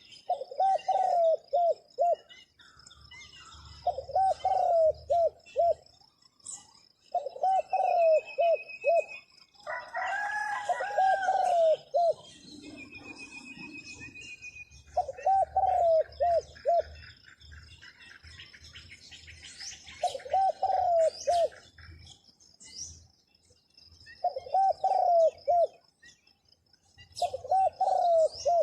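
Zebra dove cooing: repeated phrases of quick, staccato coo notes, each phrase about two seconds long and coming every three to four seconds. Other small birds chirp faintly, and a thin high steady tone runs throughout.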